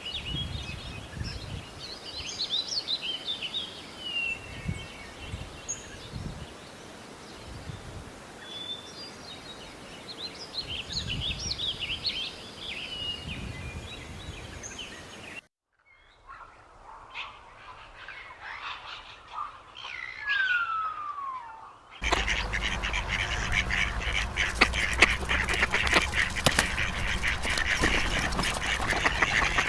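Birds calling across three joined clips. First come high chirps and short whistles, then a single falling whistled call. About two-thirds of the way in, a loud, dense chorus of many birds calling together begins.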